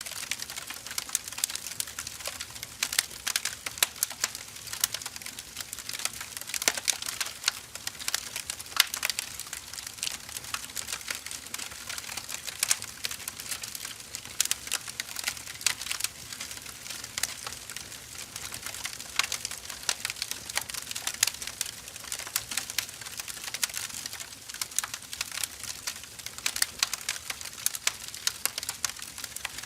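Wood fire burning, its logs crackling with dense, irregular pops and snaps over a soft hiss.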